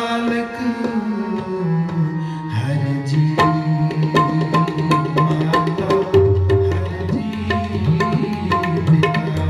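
Tabla playing a rhythmic instrumental passage of Sikh kirtan: quick sharp strokes over deep bass strokes that bend in pitch, with held melody notes sounding underneath.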